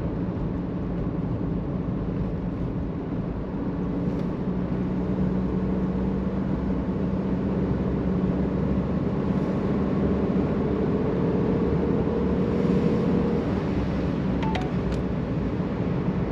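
Mercedes-Benz W201 190D diesel engine and road noise from inside the cabin while driving: a steady hum that grows slightly louder. Two faint clicks near the end.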